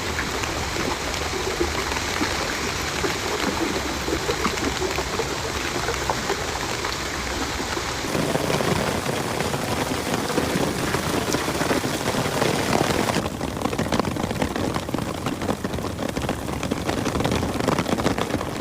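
Heavy storm rain falling and pattering on surfaces, a dense steady hiss with fine sharp ticks. Its character changes abruptly twice, about 8 and 13 seconds in.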